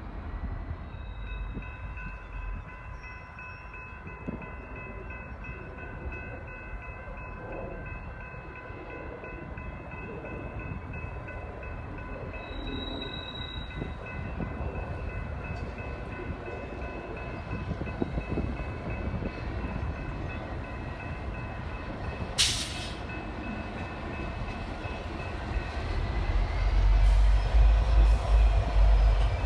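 BNSF diesel-electric locomotives running with a steady high whine over a low engine rumble. A single sharp bang comes about three-quarters of the way through, and the low rumble grows much louder over the last few seconds.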